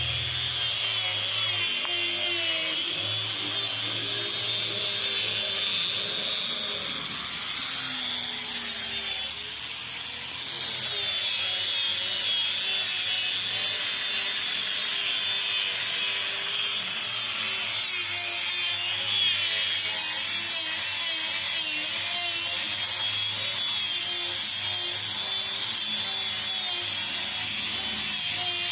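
Handheld electric power tool running steadily with a wavering high whine, used in building a wooden boat, with a brief dip in level about a third of the way through.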